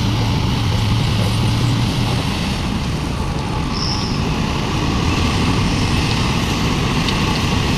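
Heavy diesel engine running steadily, with a strong low hum that eases slightly about two seconds in.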